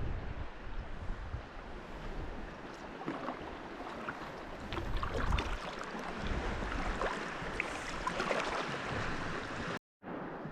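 Water splashing and trickling around a kayak, with low wind rumble on the microphone. The sound cuts out for an instant near the end.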